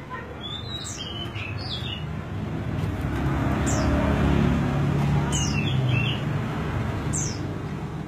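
Large niltava calling: short, high chirps, several sharp falling notes a second or two apart, with lower chirps in between. Behind them runs a low rumble that swells through the middle and fades toward the end.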